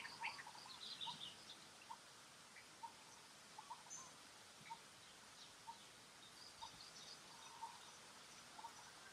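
Faint bird calls: short, quiet chirps about once a second over a low background hiss, with a few thin higher notes now and then.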